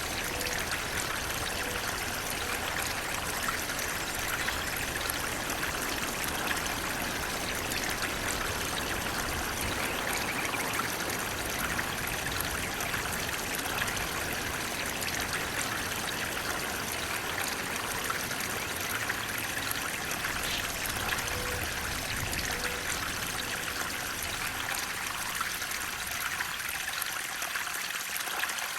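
Flowing water rushing and splashing steadily, without a break.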